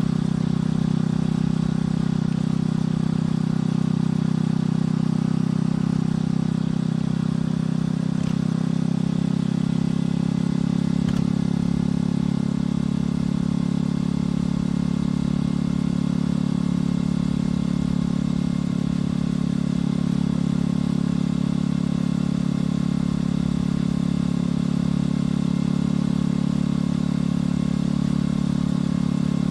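Motorcycle engine and exhaust running while riding at a steady speed, a continuous low drone that holds nearly the same pitch throughout.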